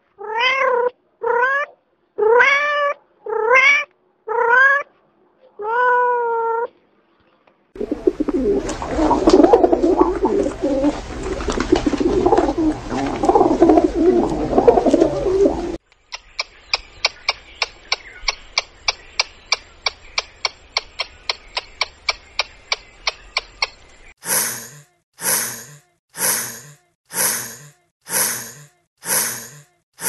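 A domestic cat meowing six times, each call rising then falling in pitch. Then comes about eight seconds of a dense, noisy sound, followed by a ground squirrel's rapid chattering of about four clicks a second. Near the end there are seven sharp calls about a second apart.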